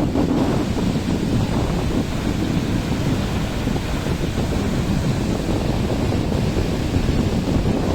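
Waterfall: a steady, deep rush of falling water, even throughout.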